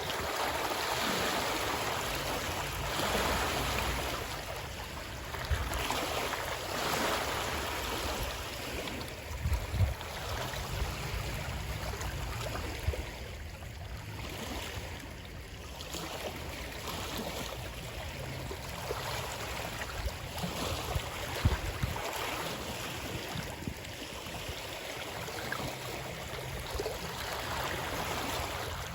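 Moving water, a steady rush that swells and eases every couple of seconds, with a few brief low thumps.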